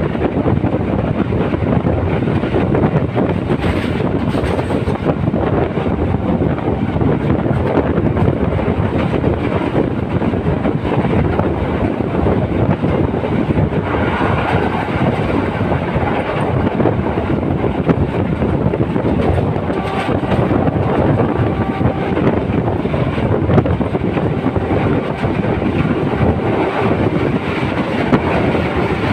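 Passenger train running steadily along the track, heard from aboard the carriage.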